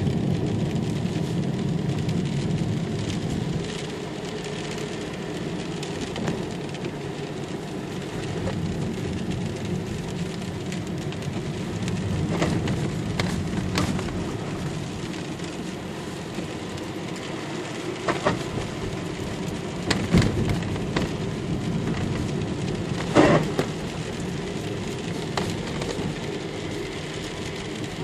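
Steady road noise inside a Kia Ceed's cabin, with a handful of short, irregular knocks, the loudest about three-quarters of the way through. The knocks are a rattle in the dashboard near the windshield air duct.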